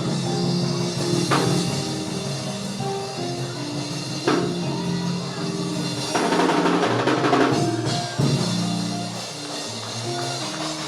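Church band playing a held organ-style chord vamp with drum kit cymbals and a few drum hits, under a sermon.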